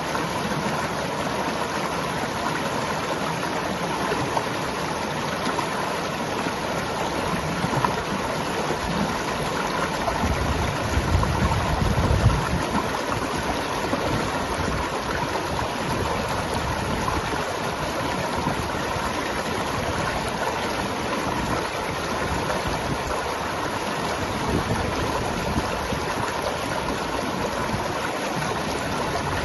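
A river flowing and rushing steadily, with a short low rumble about ten seconds in.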